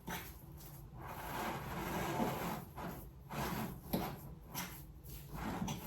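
A utensil stirring and scraping thick cottage-cheese dough in a bowl, in uneven strokes with a few light knocks.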